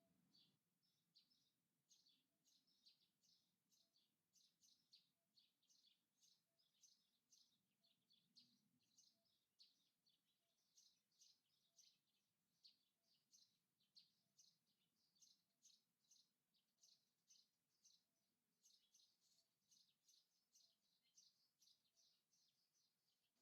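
Very faint, continuous high bird chirping outdoors: short chirps repeating several times a second without a break.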